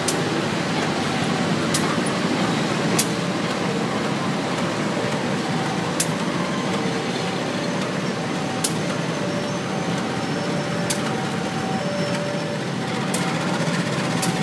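A passenger train with a CC 203 diesel-electric locomotive rolling slowly past: a steady rumble of coaches and locomotive, with sharp clacks every one to three seconds as the wheels cross rail joints, and faint tones coming and going.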